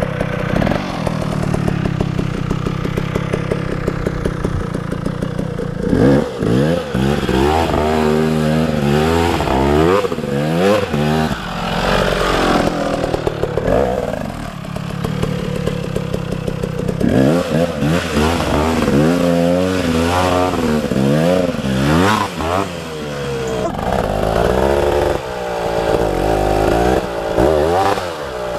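KTM 300 two-stroke dirt bike engine. It runs steadily for the first few seconds, then is revved hard again and again, its pitch climbing and dropping over and over as the throttle is opened and shut. There is a calmer spell about halfway through.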